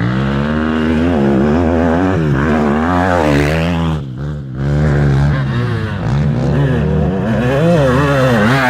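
Motocross motorcycle engines revving, their pitch rising and falling with throttle and gear changes, with a brief dip in loudness about four seconds in.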